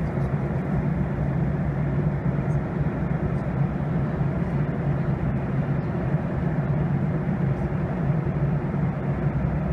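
Steady in-cabin noise of a jet airliner in flight during its descent: a constant low hum from the engines over the rush of air along the fuselage, heard from a passenger seat.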